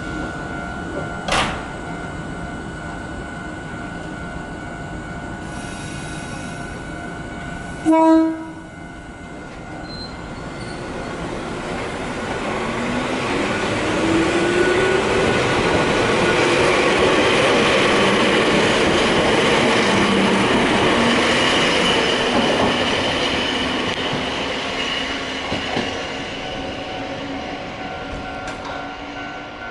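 A short train horn blast about eight seconds in, then an electric train getting under way, its motor whine rising in pitch as the running noise builds, stays loud for several seconds and fades away near the end.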